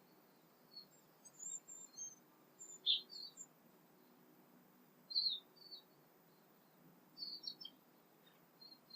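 Songbirds calling at dawn: short, high chirps and brief phrases in three or four separate bursts a second or two apart, over a faint low background hum.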